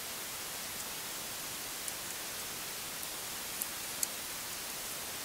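Steady hiss of background recording noise, with a few faint, light clicks of small laptop parts being handled; the clearest click comes about four seconds in.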